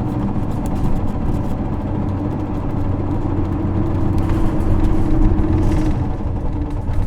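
Isuzu 6HK1 six-cylinder diesel engine of a 2009 Isuzu LV234L2 city bus running while the bus is under way, heard from inside the cabin with road noise. The engine note rises a little about four seconds in and eases again near the end.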